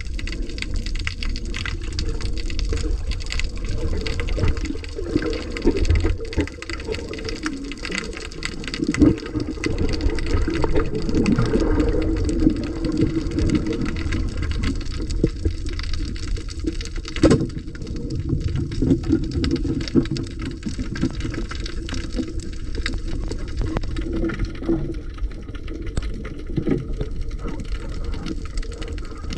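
Muffled rush of sea water and bubbles around a diving camera, with a steady low rumble and scattered crackling clicks throughout.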